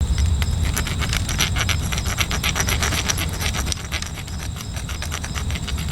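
Threaded rod rasped back and forth along the seam flash of a freshly cast, still-green concrete bird, used like a file: a steady, rapid scraping and grating.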